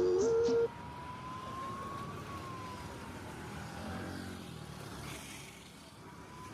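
A song with singing cuts off under a second in, giving way to road traffic noise with a siren that slowly rises and falls in pitch, starting again near the end.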